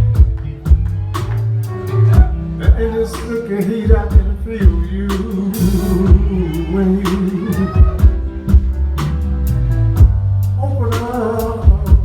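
Live blues band playing a slow song: steady drum beat and bass under a lead melody that bends and wavers, with a cymbal crash about six seconds in.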